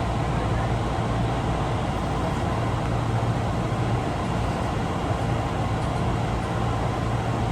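Osaka Metro 22 series subway car 22962 running at speed: a steady rumble with a constant low hum.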